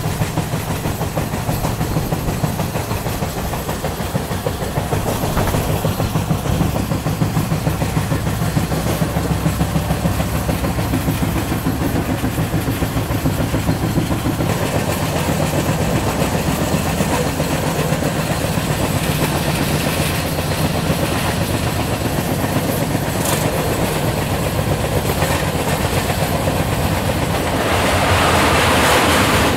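Moving express passenger train: a steady rumble of wheels on rail with fast rhythmic clatter. A brief click comes about 23 seconds in, and a louder hissing rush rises near the end.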